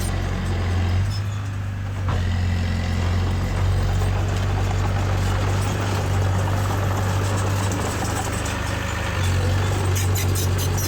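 Heavy diesel machinery engine running steadily with a deep hum, easing briefly about a second in, with a few sharp clicks near the end.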